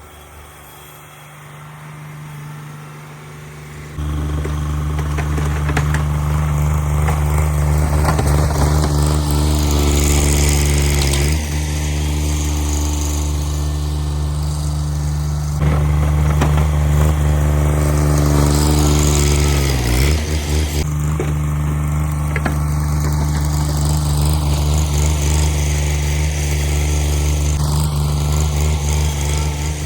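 Cub Cadet 1782 garden tractor engine running steadily. It gets suddenly louder about four seconds in, and its speed dips briefly twice, about a third and two-thirds of the way through.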